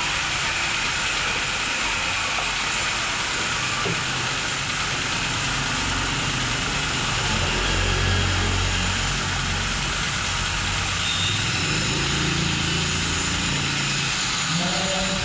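A motor running steadily under a continuous hiss. The low hum grows heavier for a few seconds about midway.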